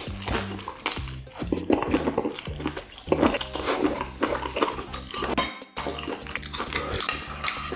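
Close-miked eating sounds: wet chewing of saucy stir-fried large intestine and baby octopus, with utensils clinking and scraping against a frying pan. Background music with a steady bass line runs underneath.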